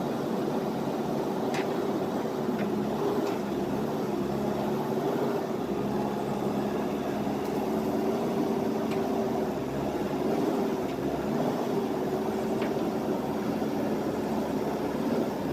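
JCB backhoe loader's diesel engine running steadily with a slightly wavering hum, with now and then a faint click.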